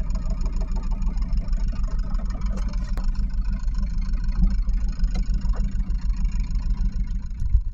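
The small inboard diesel engine of a 1983 Catalina 30 sailboat, running steadily at low speed with a low rumble.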